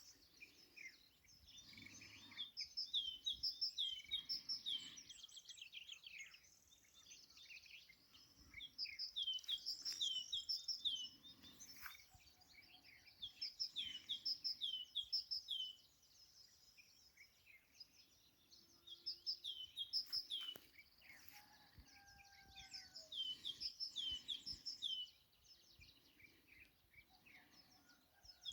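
Small songbirds singing: bouts of rapid, high chirping notes, each phrase lasting a few seconds and repeating every few seconds, with a few fainter, lower whistled notes from another bird in between.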